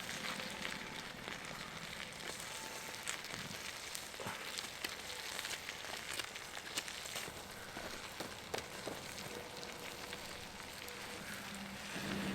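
Meat sizzling directly on hot campfire coals: a steady hiss with scattered pops and crackles.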